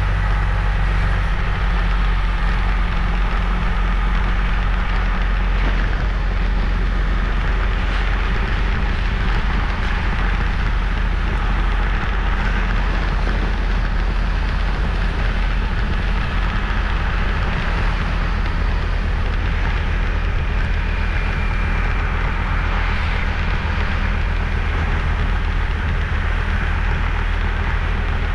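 Motorbike running at a steady cruising speed, its engine a low hum under the rushing noise of wind and road.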